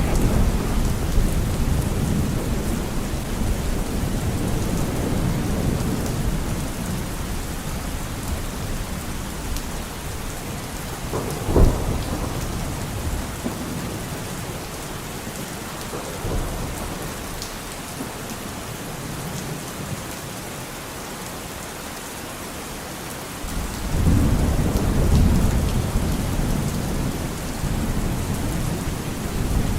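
Steady rain with thunder. A low rumble fades away over the first several seconds, a sharp thunderclap cracks about twelve seconds in, and a heavy rumble of thunder starts abruptly about three-quarters of the way through.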